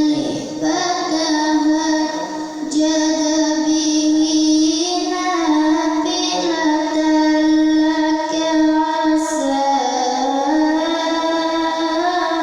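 A young girl reciting the Quran in melodic tilawah style, holding long notes with ornamented turns of pitch, pausing briefly for breath between phrases.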